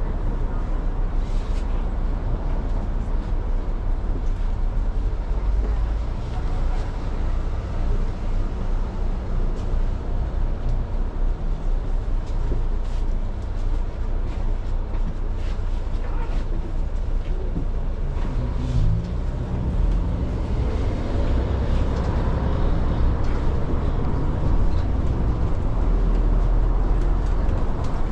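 Steady low engine and road rumble inside a moving city bus, with a wavering engine note about two-thirds of the way through.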